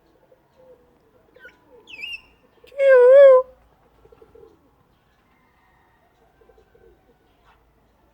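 African grey parrot giving a short rising squeak, then one loud wavering whistled call about three seconds in.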